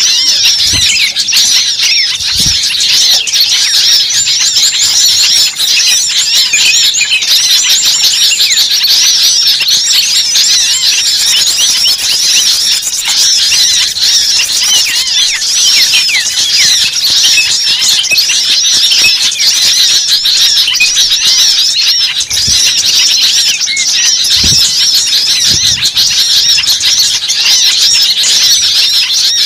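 Many birds chirping at once in a dense, continuous chorus of overlapping high chirps.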